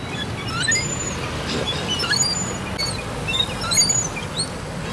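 Birds chirping: short, squeaky, rising calls repeated every second or so, over a low steady rumble.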